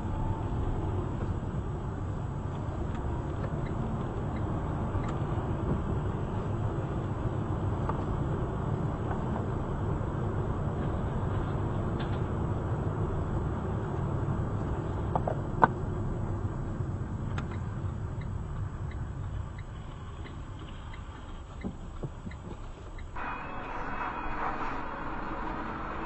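A car driving, with a steady low rumble of engine and road noise, and one sharp knock about two-thirds of the way through. Near the end the sound changes suddenly to a brighter, hissier road noise.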